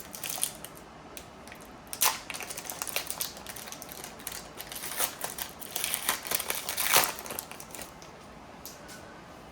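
A trading-card pack wrapper being torn open and crinkled: scattered crackles, with louder rustles about two seconds in and again from about five to seven seconds in.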